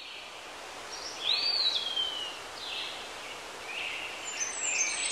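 Songbirds singing over a steady background hiss: clear whistled phrases, one sliding down in pitch a little over a second in, with several high, overlapping phrases near the end.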